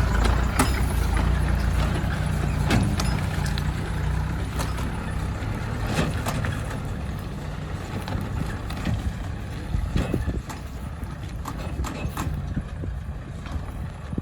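A truck engine running at a low, steady note that slowly fades, with scattered sharp knocks and clicks over it.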